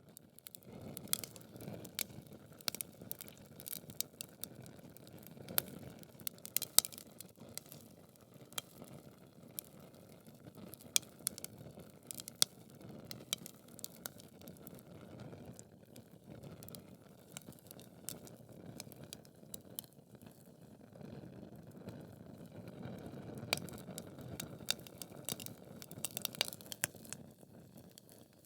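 Wood logs burning in a fireplace: irregular sharp crackles and pops over a low, steady rush of flame. The loudest pops come about 7 and 11 seconds in.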